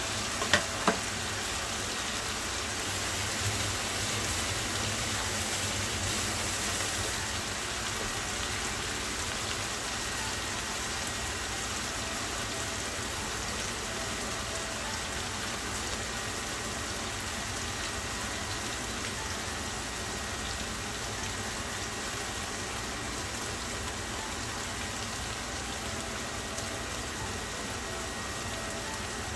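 Salmon steaks sizzling steadily in a nonstick frying pan, the liquid in the pan cooking down. Two sharp clicks of metal tongs against the pan near the start.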